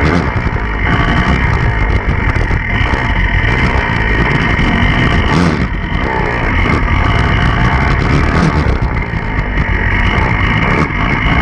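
Enduro dirt bike engine running hard, revs rising and falling as it is ridden.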